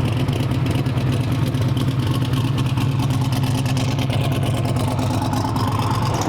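A vehicle engine running at a steady speed, a loud low drone that holds constant.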